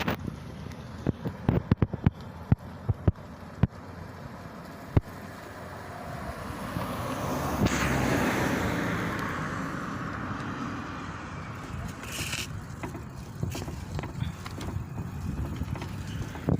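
Noise of a passing vehicle that swells to a peak about eight seconds in and then fades slowly, its pitch falling as it goes by, over wind on the microphone. Several sharp clicks come in the first few seconds.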